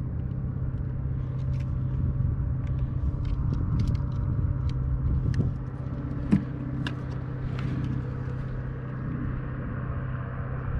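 A steady low motor hum runs throughout, with scattered light clicks and one sharper knock about six seconds in.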